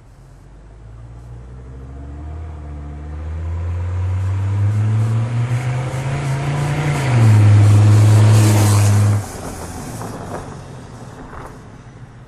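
1982 Mercedes-Benz 300TD's straight-piped OM617 turbocharged five-cylinder diesel driving past under acceleration. The engine note climbs steadily and is loudest about seven to nine seconds in, with a faint high turbo whistle, then drops away suddenly as the car passes.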